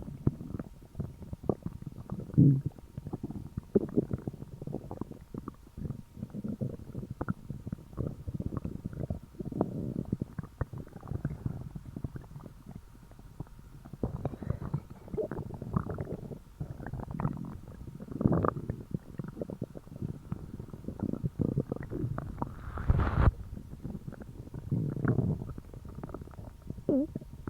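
A person's stomach and intestines gurgling and rumbling on an empty stomach during a fast. The gurgles and small pops are irregular and low-pitched, with one sharper, louder one about two-thirds of the way through.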